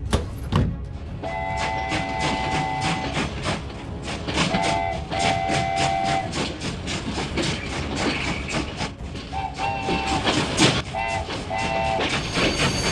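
Train running on rails, its wheels clacking evenly over the rail joints at about four clacks a second. A chord-like whistle sounds in several blasts, some long, some short, and a rushing hiss swells near the end.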